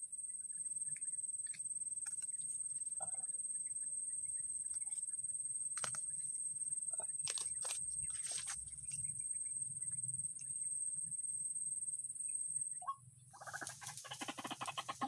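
Scattered rustles, snaps and clicks of hands working vegetation and snare material as a hanging-noose bird snare is set, over a steady high-pitched whine. The whine stops near the end, and after a brief hush a fast, even pulsing sound begins.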